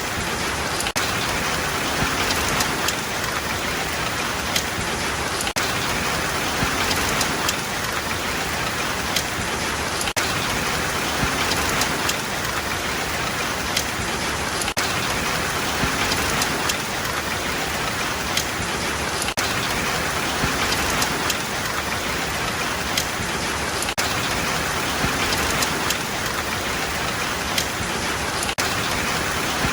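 Steady rainfall, with individual drops pattering and ticking on a hard surface.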